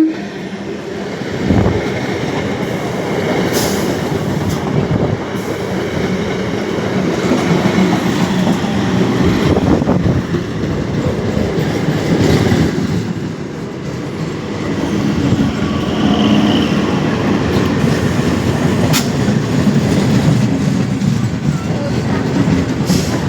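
Train running on the track: a steady loud rumble with wheel clatter and occasional sharp knocks.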